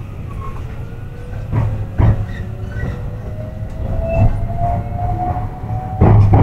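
Electric train heard from inside the carriage while moving through a station: a low running rumble with a faint motor whine that rises slowly in pitch as the train gathers speed, and the wheels clunking over rail joints and points several times, loudest near the end.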